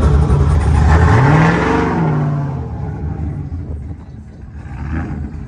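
Truck engine running loud, revved once about a second in, its pitch rising and then falling back; the engine sound then drops away and stays quieter, with a small swell near the end.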